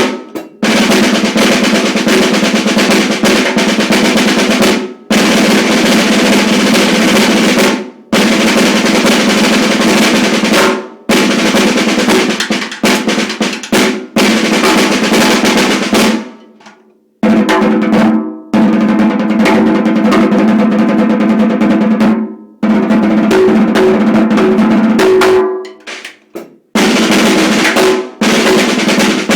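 1969 Ludwig Standard snare drum, freshly fitted with new heads, played in sustained rolls. Each roll lasts a few seconds, with short breaks between them, and the drum's low ring is strong under the snare buzz.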